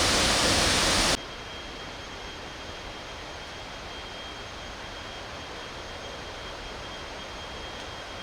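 Steady rushing roar of a waterfall that cuts off abruptly about a second in, giving way to a quieter steady rushing with a faint high whine.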